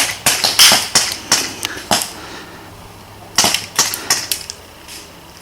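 Airsoft guns firing: sharp, irregular pops and clicks in two clusters, one over the first couple of seconds and another about three and a half seconds in.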